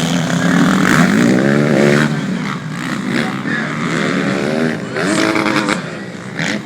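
Motocross motorcycle engines racing on the track, revving up with a rising pitch about a second in and again about five seconds in as the bikes accelerate.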